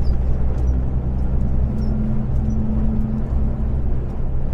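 Steady low rumble of an Iveco Stralis 510 truck's engine and tyres, heard inside the cab while driving under its automatic gearbox.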